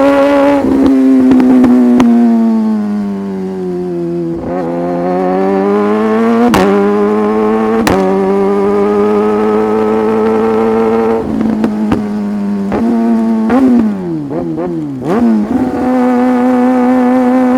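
Sportbike engine under way. Its pitch falls as the bike slows, then climbs through two quick upshifts with sharp breaks in the sound, holds steady while cruising, and near the end drops through several downshifts with short rev blips before settling.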